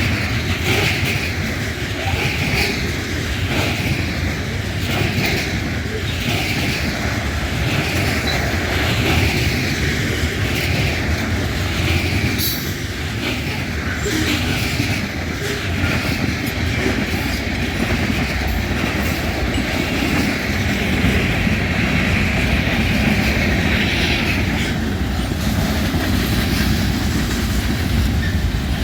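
A train rolling past with a constant low rumble and a high wheel squeal that rises and falls in a regular repeating pattern. Later the squeal turns steady and stops about 24 seconds in.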